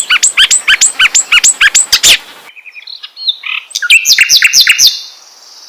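Songbird singing a fast series of sharp, repeated chirps, about five a second, for about two seconds. After a short pause with faint twittering, it gives a second quick burst of notes.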